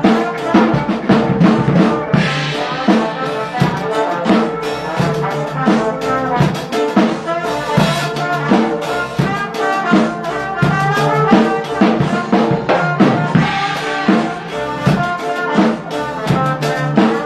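Loud music with brass and a drum kit keeping a steady beat, played through a car audio system.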